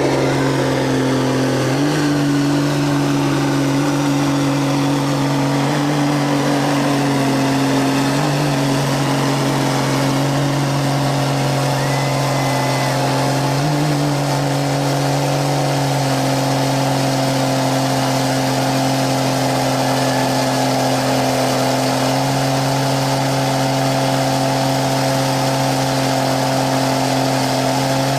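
Vehicle engine held at steady high revs under load, pitch stepping up and back slightly a few times, as a stuck vehicle tries to drive out.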